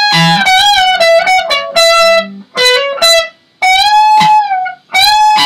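Electric guitar playing a high lead phrase on its own, with full-tone string bends on the B string pushed up and let back down, in several short phrases with brief gaps.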